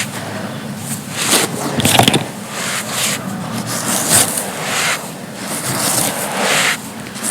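Dry, crispy round chunks of pure sand being crushed and crumbled by hand, a series of crunches at about one or two a second.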